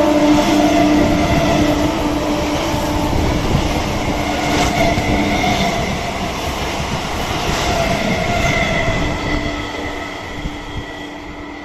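Electric multiple-unit local train running through the station at speed without stopping, its wheels clacking over rail joints. A steady hum fades out about halfway, and the whole sound gradually dies away as the coaches go by.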